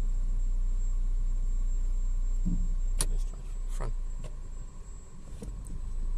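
Honda City GD8's four-cylinder i-DSI engine running as the car rolls slowly, a steady low rumble in the cabin. About three seconds in there are a few sharp clicks and a brief falling squeak, and the rumble drops off.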